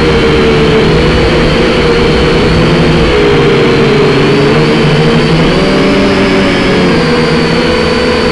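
Quadcopter drone's motors and propellers whining in flight, their pitch wavering up and down as the motors fight gusty wind. Wind rumble on the microphone runs underneath.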